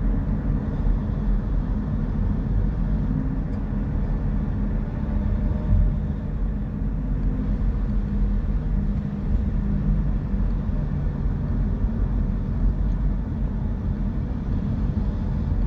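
A vehicle driving in traffic: a steady low engine drone and road rumble.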